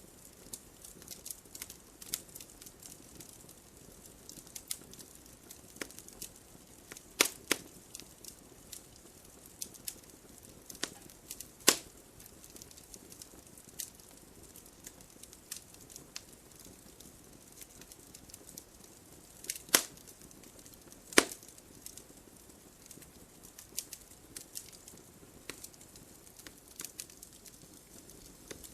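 Wood fire burning in a fireplace: a steady stream of small crackles over a soft hiss, with four much louder sharp pops scattered through.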